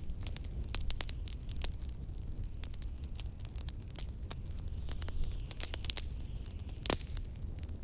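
Wood fire in a fireplace crackling: irregular sharp pops and snaps over a steady low rumble, with one louder pop near the end.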